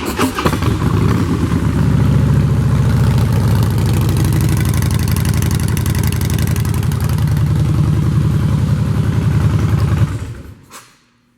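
Harley-Davidson 103 cubic inch V-twin engine running through a set of Vance & Hines Short Shots exhaust pipes, steady for about ten seconds, then shut off and dying away.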